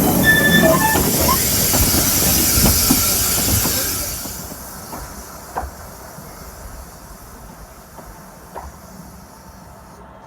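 Narrow-gauge steam train with a loud hiss of steam that dies away after about four seconds, brief squeals near the start, then scattered clanks and knocks from the train.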